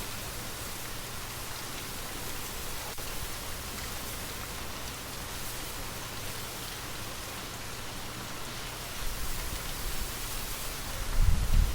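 Steady rain falling, an even patter of drops, with low gusts of wind that swell and grow louder over the last few seconds.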